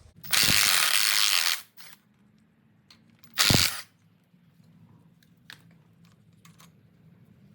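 Ratchet wrench spun in two quick runs of rapid clicking, a longer run near the start and a short one about three and a half seconds in, while the rocker arms of a 289 V8 are being taken off.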